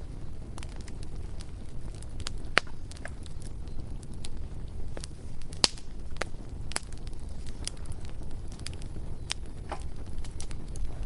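Bonfire crackling: irregular sharp pops and snaps from the burning wood, the loudest about halfway through, over a steady low rumble.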